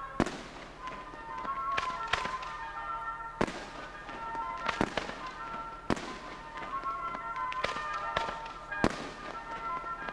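Fireworks going off in a display: about ten sharp bangs at irregular intervals, some in quick pairs, with music playing underneath.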